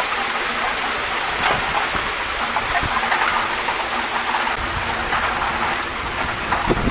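Rain falling steadily during a thunderstorm, a continuous even hiss.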